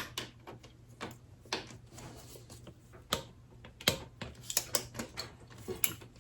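Irregular sharp metallic clicks from a ratchet torque wrench tightening two bolts on a motorcycle front fork to 12 foot-pounds.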